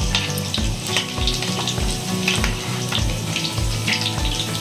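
Ginger, garlic and dried red chillies sizzling and crackling in hot oil in a pan as they are sautéed, with many quick pops throughout: the tempering (baghar) for a pickle.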